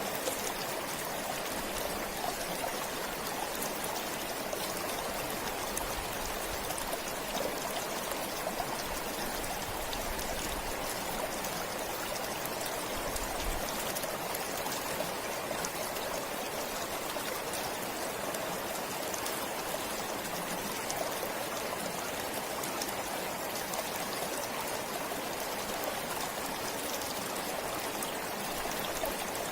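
Forest stream flowing steadily, an even rush of water with small splashes and trickles.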